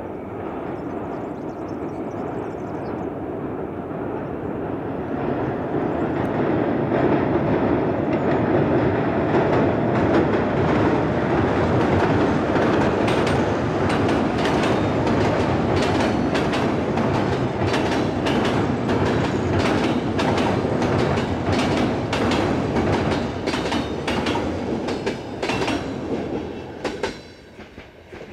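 InterCity passenger train hauled by an ADtranz DE2000 diesel locomotive crossing a steel truss viaduct. A rumble swells over the first several seconds, then comes a long run of rapid wheel clacks over the rail joints, and the sound falls away near the end as the last coaches leave the bridge.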